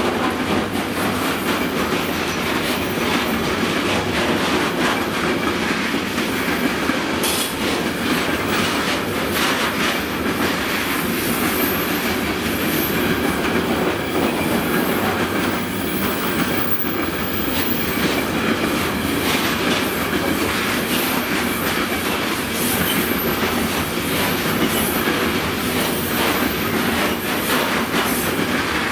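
Freight train wagons rolling past at close range: a steady rumble of wheels on rail with a running clickety-clack of wheels over the rail joints.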